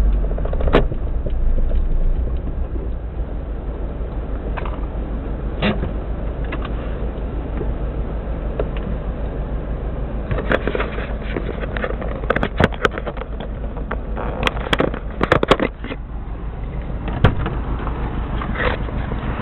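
Subaru WRX EJ205 turbocharged flat-four engine running steadily, with scattered sharp clicks, most of them in the middle part. It has a misfire in cylinder 3, which the owner puts down to a cracked valve.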